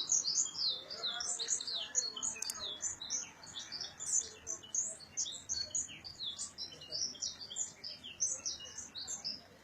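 Small songbirds chirping and twittering in a fast, unbroken stream of short, high notes, stopping just before the end.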